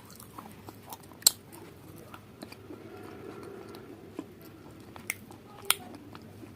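Close-up eating sounds: chewing, with a few sharp crunches or clicks, the loudest about a second in and two more near the end.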